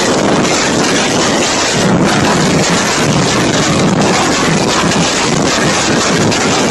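Loud, steady storm noise: a dense, unbroken hiss of heavy rain and wind.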